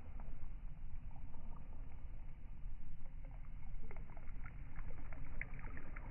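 Wind buffeting the microphone at the shore, a steady low rumble, with faint short chirps in the second half.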